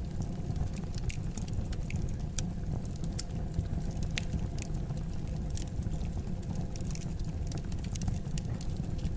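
Fire in a fireplace crackling: scattered sharp pops and snaps over a steady low rumble of the flames.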